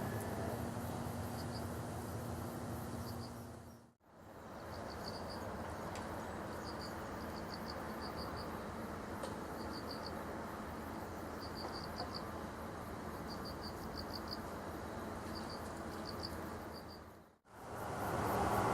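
Insects chirping in short clusters of high, rapid pulses over a steady outdoor background hum. Near the end, a louder rumble begins to rise as a Keihan train approaches.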